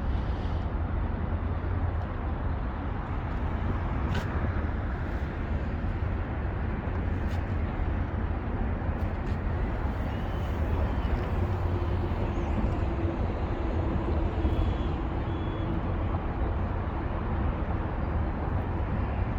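Steady low engine rumble with a wash of city noise. A faint mid-pitched tone holds for a few seconds about halfway through.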